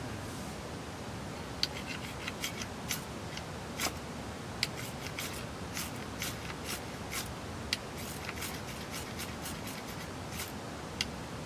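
Ferrocerium fire-starter rod struck again and again with a scraper: a long irregular run of short, sharp scrapes, throwing sparks that are not yet catching the tinder.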